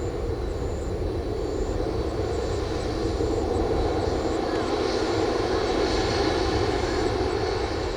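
Jet engines of a Boeing 767-346ER taxiing at low power: a steady hum with a faint high whine, growing slightly louder through the second half.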